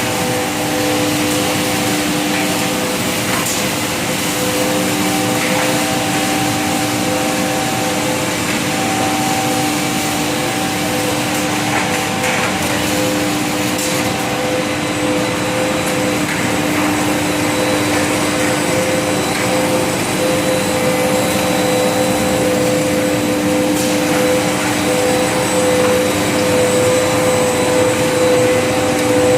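ABS/HIPS plastic sheet extrusion line running: a steady machine hum with several held tones over a broad hiss, and a few faint clicks.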